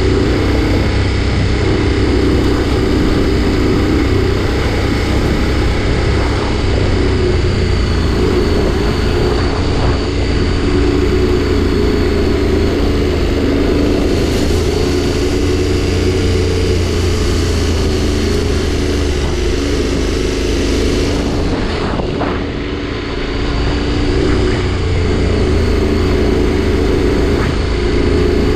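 Adventure motorcycle engine running at a steady cruising throttle on a dirt trail, mixed with wind rush. The engine note eases off briefly a little after twenty seconds, then picks up again.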